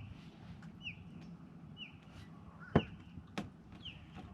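A bird calling over and over with short, high notes that slide downward, about one a second. A few sharp knocks cut in near the middle and end and are the loudest sounds.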